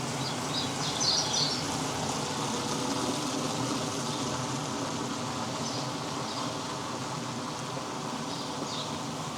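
Steady outdoor ambience of rain and a constant low hum, with a few short bird chirps: the clearest about a second in, and fainter ones near six and nine seconds.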